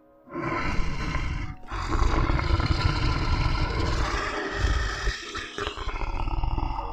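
A big cat roaring and growling in long, rough calls, with a brief break about a second and a half in.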